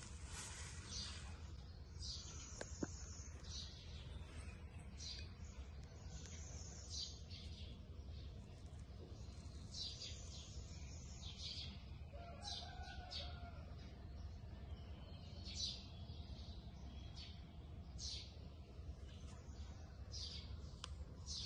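Faint chirping of small birds: short, high calls coming irregularly every second or so, over a low steady background hum.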